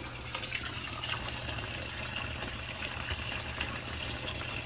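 Water trickling steadily from a small reptile-enclosure waterfall, over a low steady hum.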